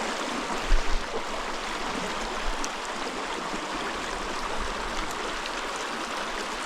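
Mountain stream running over rocks near a small waterfall: a steady rush of water, with a couple of brief knocks just under a second in.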